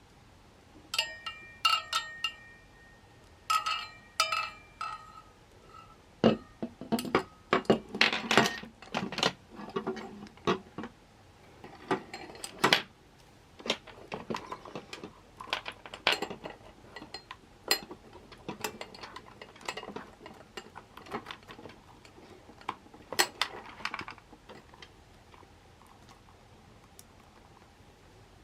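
Dishes and metal cookware being handled: a run of clinks and knocks, the first few ringing briefly, then denser knocking that stops a few seconds before the end.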